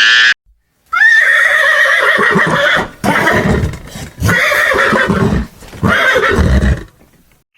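Horse neighing: a long whinny starting about a second in, followed by three shorter calls.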